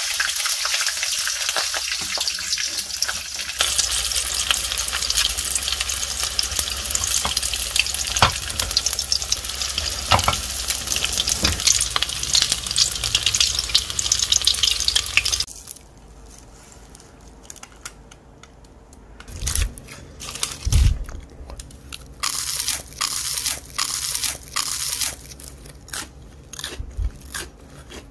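Battered frozen shrimp tempura deep-frying in hot oil: a dense crackling sizzle that cuts off suddenly about halfway through. Then a run of separate crisp crunches of someone biting into fried food.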